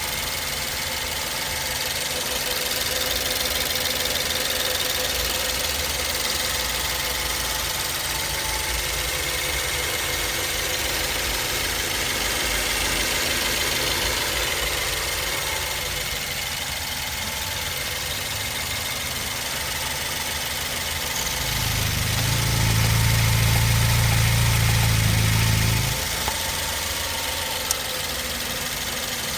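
BMW 116i's 1.6-litre four-cylinder petrol engine running steadily, with a louder, deeper hum for about four seconds some two-thirds of the way through. The owner is unsure whether this engine noise is normal or a sign that something is wrong.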